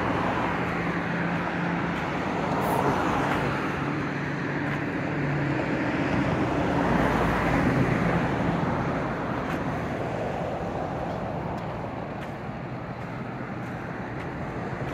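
Road traffic noise with cars passing. It swells twice, then eases off after about ten seconds.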